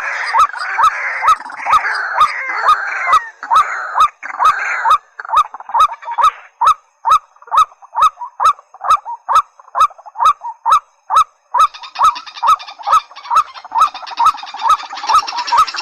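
Recorded calls of rails, white-breasted waterhen and watercock: a short honking call repeated about three times a second, each with a sharp click. For the first five seconds several birds call over one another. After that one steady series carries on, and a hissing high chorus joins about twelve seconds in.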